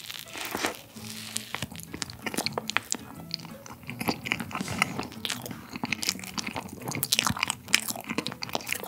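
Close-miked biting and chewing of a soft cream bun filled with fresh cream and chopped pistachio and almond pieces, with many small crunches from the nuts between the soft mouth sounds.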